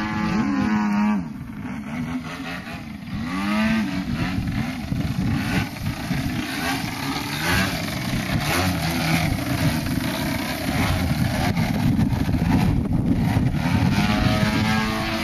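50 cc gasoline engine of a radio-controlled aerobatic airplane in flight, its pitch rising and falling repeatedly as the plane manoeuvres and passes.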